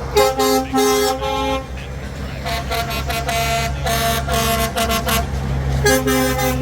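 Truck air horns tooting in repeated short blasts over the steady low running of diesel engines. A group of blasts in two or three different pitches comes first, then a quick run of toots on one note, then another multi-note group near the end.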